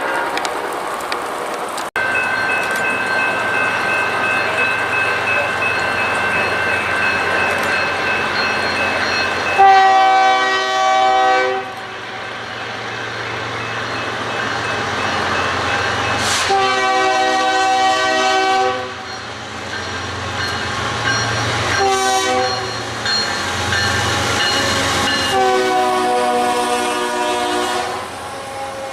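Train horn sounding the grade-crossing signal: two long blasts, a short one and a final long one, over the steady rolling noise of a train on the tracks.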